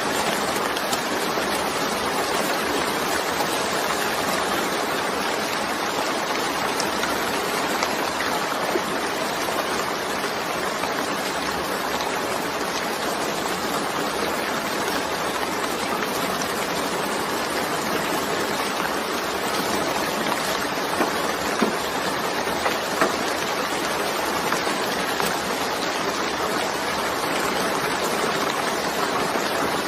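Steady rain: an even, dense hiss of falling drops, with a few sharper drop hits about two-thirds of the way through.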